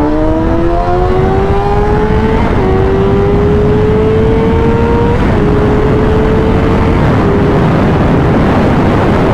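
Honda CBR600RR's inline-four engine accelerating hard at full throttle. Its pitch climbs steadily and drops back at three upshifts, roughly every two and a half seconds. Heavy wind rush on the microphone builds with speed and drowns out the engine near the end.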